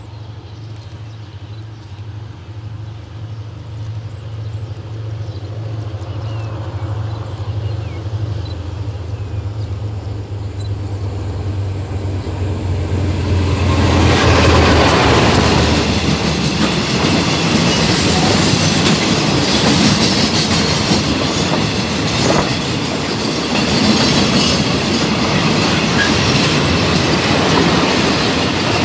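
Diesel locomotive approaching, its engine drone growing louder until it passes about halfway through. After that comes the steady rumble and clatter of a long string of tank wagons rolling by on the rails.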